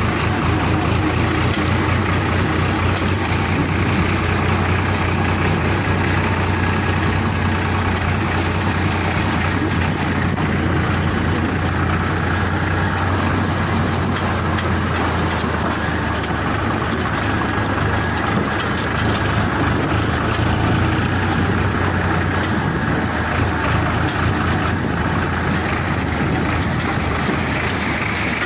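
Powertrac 439 tractor's diesel engine running steadily with a low, even drone.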